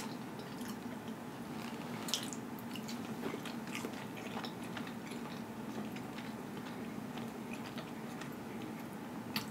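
Close-miked chewing of rotisserie chicken dipped in ranch: soft, wet mouth clicks over a low steady hum, with a sharper click about two seconds in and another near the end.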